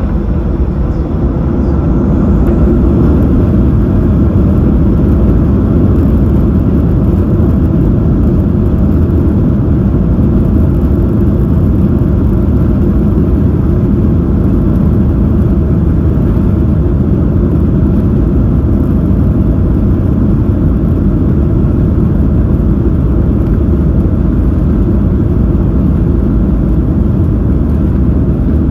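Inside the cabin of a Boeing 737-800 on departure: its CFM56 engines at takeoff power and the rushing air make a loud, steady low rumble that swells slightly about two seconds in.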